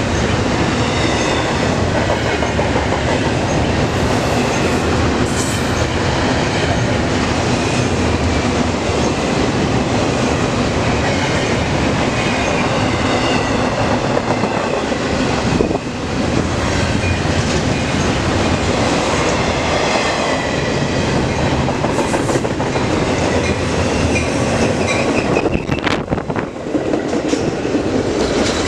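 A train passing close by, its wheels running over the rails with a steady loud noise and wavering high squealing tones, dipping briefly about halfway through.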